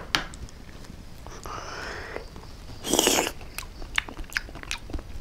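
A person chewing and biting a mouthful of oyster salad, with many short wet mouth clicks and one louder noisy burst about three seconds in.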